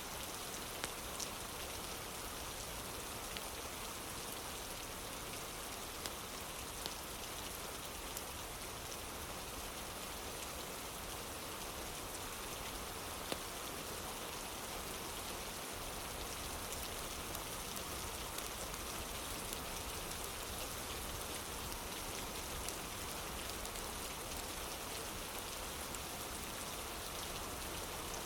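Steady rain falling, with occasional sharp ticks scattered through it.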